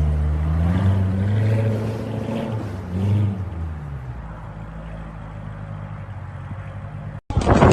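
Car engine revving, its pitch rising and falling over the first three seconds, then running quieter and steadier. Near the end it cuts off abruptly into a louder, different sound.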